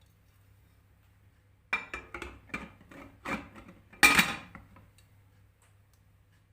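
Kitchenware clattering: a quick run of knocks and clinks from dishes or utensils, the loudest about four seconds in, over a faint steady low hum.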